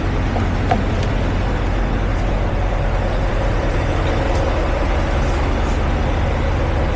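A heavy diesel truck engine idling, a steady low rumble that does not change.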